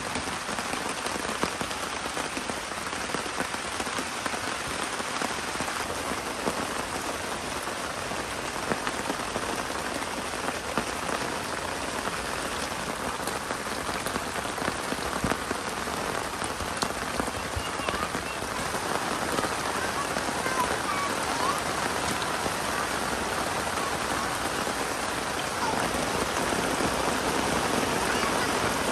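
Steady rain falling, with many single drops ticking on surfaces, getting a little heavier near the end.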